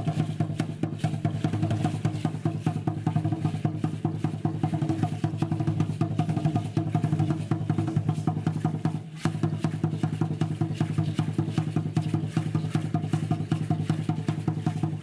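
Drum-led percussion music with fast, steady, rapid strikes over a sustained low drone, briefly dropping out about nine seconds in.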